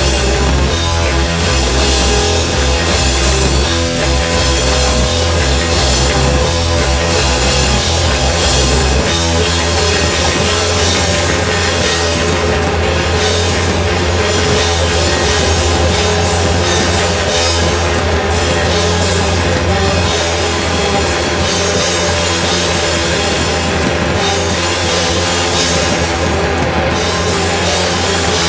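Live rock band playing loud, distorted music with drum kit; about nine seconds in the bass line changes.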